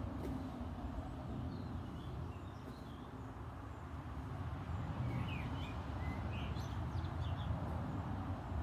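Small birds chirping in short high notes, a few about two seconds in and a cluster more in the second half, over a steady low outdoor rumble.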